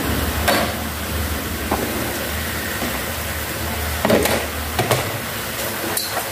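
A beef and mushroom stir-fry sizzling in a pot as sliced red peppers are tipped in, with a few knocks and clinks against the pot. A low steady hum runs underneath.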